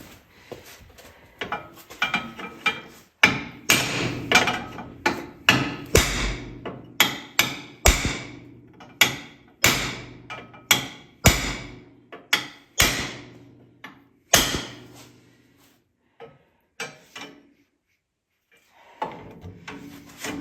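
Hammer driving a steel punch against the bent steel frame tower of an ATV to tap it back into place. A few light taps, then a steady run of sharp ringing blows about two a second for some ten seconds, stopping about three-quarters of the way through with only a couple of faint taps after.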